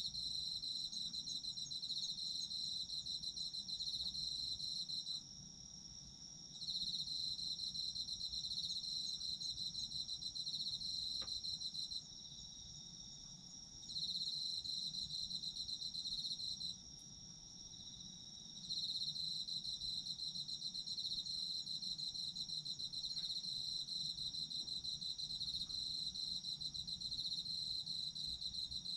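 Autumn crickets calling: one trills rapidly in long runs that stop three times for a second or two, over the steady unbroken high drone of other insects.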